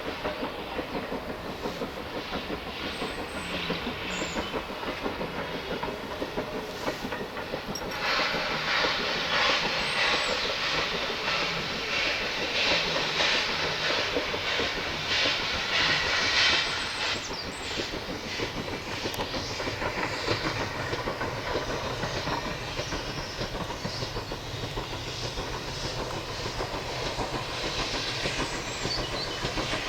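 A steam-hauled train running past, its carriage wheels clattering rapidly over the rail joints. A louder hiss swells from about eight seconds in and falls back around seventeen seconds.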